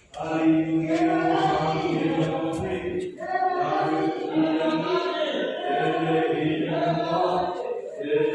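Several voices chanting a devotional chant together over a steady low drone, starting abruptly just after a brief silence.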